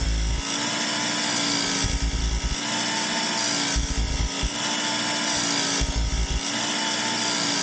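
Work Sharp electric belt sharpener running with a medium-coarse belt while a steel broadhead edge is drawn across it in repeated passes. The motor hum and the grinding rasp change in a regular pattern about every two seconds as each pass is made.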